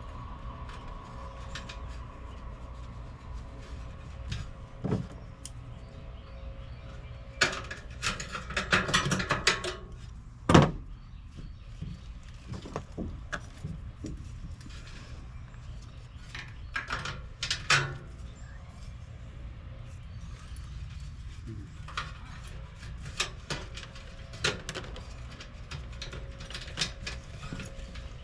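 Hands working inside an air-conditioner condenser unit: scattered clicks, light rattles and knocks from handling parts, wires and tools. A burst of rattling comes about eight seconds in and a single loud knock a couple of seconds later, over a steady low hum.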